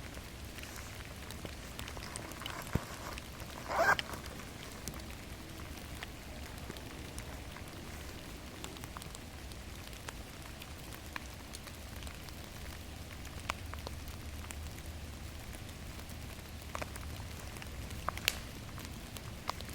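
Steady rain falling, with scattered drops ticking sharply. A brief, louder noise comes about four seconds in.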